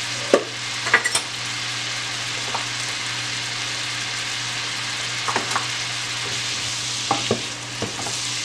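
Whole button mushrooms sizzling steadily as they fry in butter and garlic in a pan, with a few light knocks of a wooden spoon stirring them against the pan.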